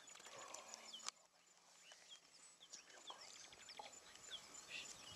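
Faint bird calls: short, falling high chirps about twice a second over a faint pulsing high note, with one sharp click about a second in.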